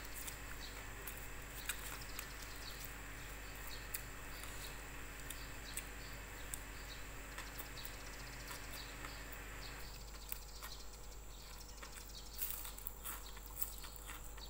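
Close-up eating sounds: soft chewing and small wet mouth clicks as rice and fried fish are eaten by hand, with the clicks thicker near the end. A steady background hum cuts off about two-thirds of the way through.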